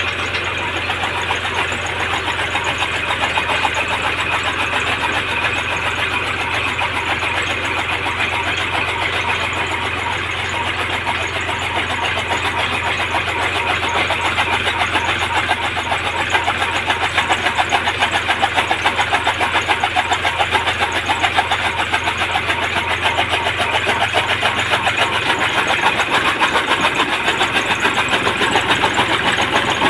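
Fiat 480 Special tractor's diesel engine running steadily with a rapid, even chug. It gets somewhat louder about halfway through.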